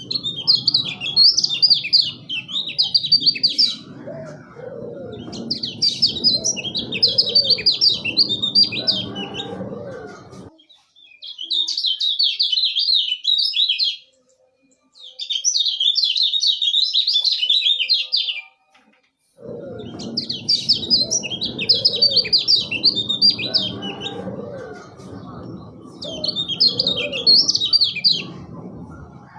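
Kecial kuning songbird singing: fast, jumbled chattering phrases of about three to four seconds each, broken by short pauses. A lower, repeating sound runs under the song during the first and last thirds.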